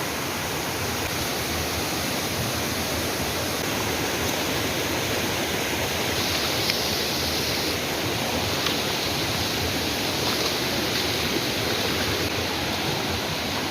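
Rushing river water, a steady, even rush with no letup.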